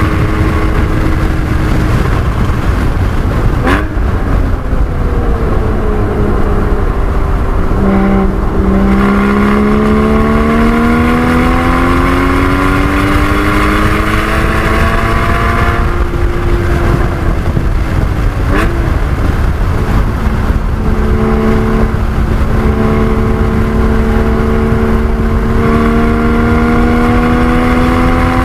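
Porsche 981 Cayman GT4's 3.8-litre flat-six driven hard around a race track, its note climbing steadily under acceleration and falling twice, about 4 and 19 seconds in, as the car slows for corners, over steady road and wind noise.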